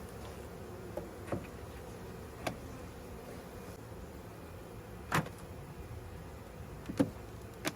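Honeybees buzzing around a hive, with individual bees flying close past the microphone about six times, each a brief buzz that swells and fades.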